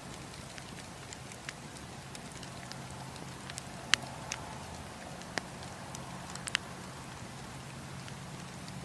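Wood campfire crackling: irregular sharp pops and snaps, the loudest about four seconds in and another pair near six and a half seconds, over a steady low rumble of the burning fire.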